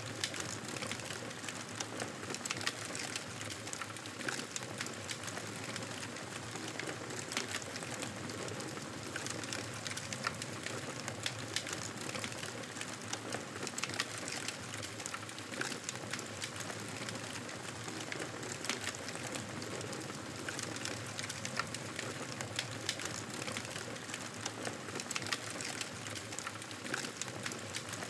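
Campfire burning, a steady hiss of flames with frequent irregular crackles and small pops from the wood.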